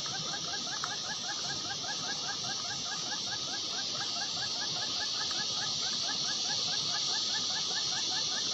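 A fast, steady string of short rising chirps, about seven a second, from a small animal, over a steady high insect-like hiss.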